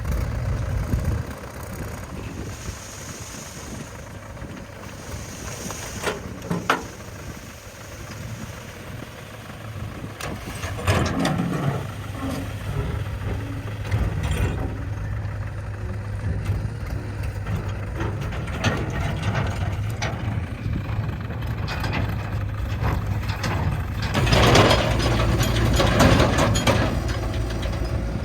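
Diesel engine of heavy earth-moving machinery running steadily, with occasional knocks and a louder rush of noise in the last few seconds.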